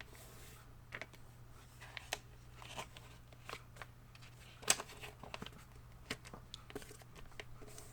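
Faint rustling and crinkling of a sheet of paper being folded in half and creased by hand: scattered soft clicks, with one sharper crackle about halfway through. A steady low hum lies underneath.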